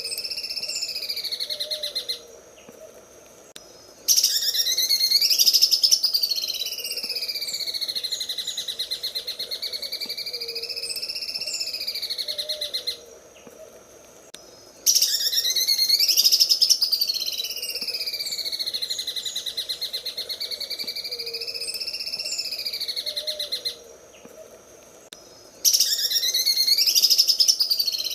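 Cucak ijo (leafbird) singing its 'sewing machine' song: a fast, rattling trill that wavers up and down in pitch. It breaks off three times for under two seconds, and each time it comes back louder for a few seconds.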